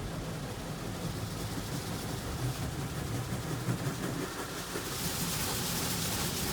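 Petit AccuTrac 360 in-bay automatic car wash spraying rinse water over the car as it moves around it, heard from inside the car with its engine idling underneath; the spray hiss grows louder about five seconds in.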